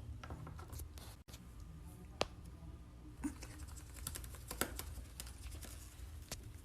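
Faint, irregular clicking and scratching: small sharp ticks, one louder about two seconds in and a cluster of them a couple of seconds later.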